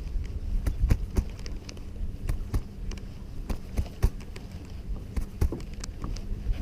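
Wind rumbling on the microphone of a kayak in choppy water, with irregular sharp knocks and slaps scattered throughout.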